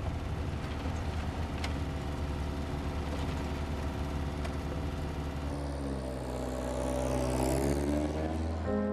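Car engine running, heard from inside the cabin as a steady low drone; about five and a half seconds in its note rises as the car speeds up.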